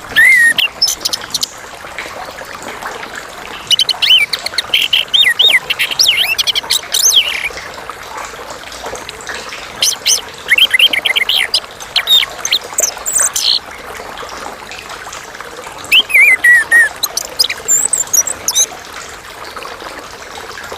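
Chestnut-capped thrush singing: four bursts of rapid, varied high whistled phrases and trills, separated by pauses of a few seconds, over a steady background hiss.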